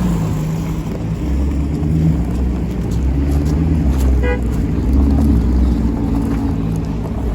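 Car engine running at low revs with a steady low rumble. A short high-pitched beep or chirp sounds briefly about four seconds in.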